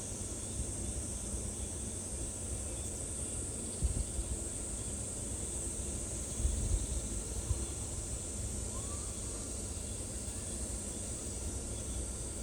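Steady high-pitched drone of insects, with a low rumble underneath that bumps a few times around the middle.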